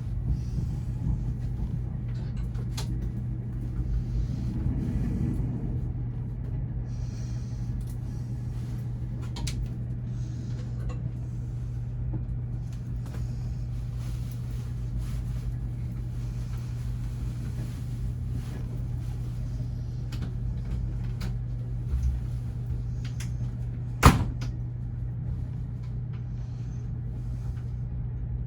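Running noise of a VIA Rail Canadian passenger car heard from inside a cabin: a steady low rumble and hum with scattered light rattles and clicks, and one sharp knock near the end.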